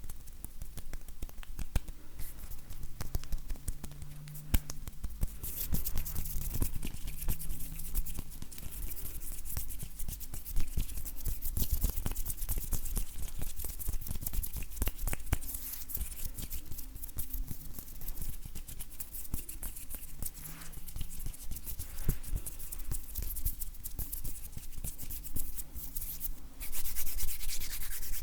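Dry bare hands rubbing together close to the microphone: a crackly rustle of skin with many soft clicks and light creaks. Near the end the rubbing turns louder and steadier.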